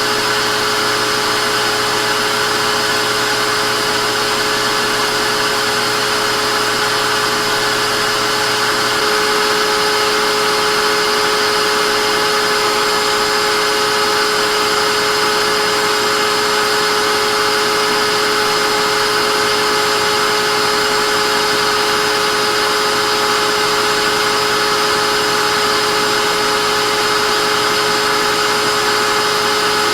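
Vacuum cleaner running continuously: a steady electric-motor whine over rushing air. About nine seconds in, a low hum drops out and it gets slightly louder.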